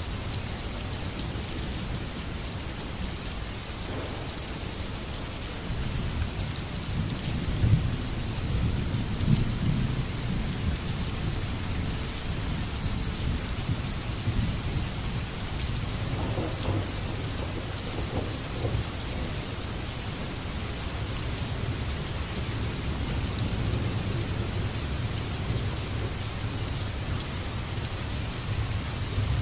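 Heavy rain falling steadily, with a low rumble underneath that swells for a few seconds, peaking about eight seconds in.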